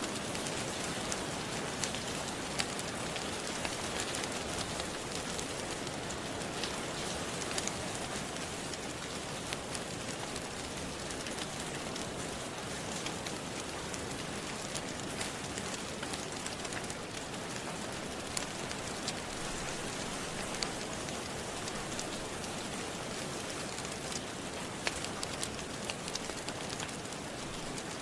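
Steady rain, with scattered sharp crackles and pops of a wood fire mixed in.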